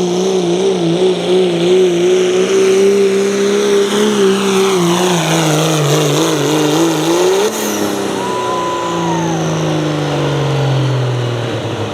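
Pulling vehicle's engine at full throttle under load, its pitch wavering as it pulls. About seven seconds in, the revs flare briefly, then the throttle comes off and the engine winds down in a long falling pitch, with a brief high whistle as it lets off.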